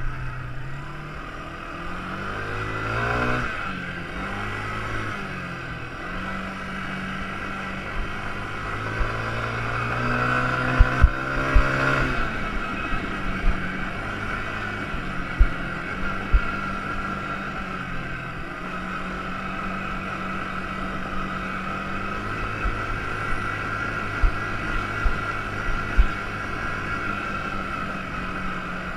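Quad bike engine running under way, its pitch rising and falling as the throttle is opened and eased, over a steady high whine. A few sharp knocks come from about ten seconds in.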